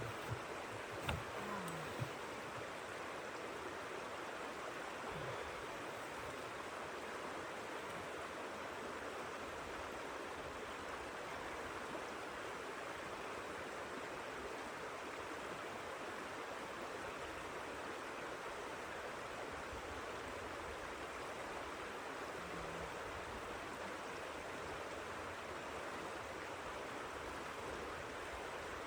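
Steady rushing hiss of blizzard wind and blowing snow, with a few light knocks in the first two seconds.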